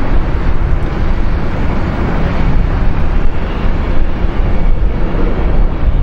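Steady, loud engine noise of a jet airliner on or near the runway.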